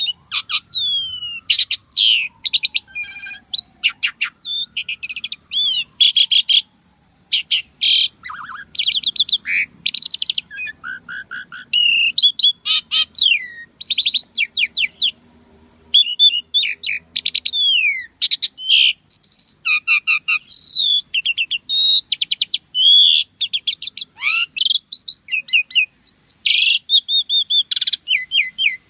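Asian pied starling singing without pause: a long, varied song of loud sliding whistles, rapid rattling chatters and short sharp notes, mixed with fill-in phrases copied from other birds.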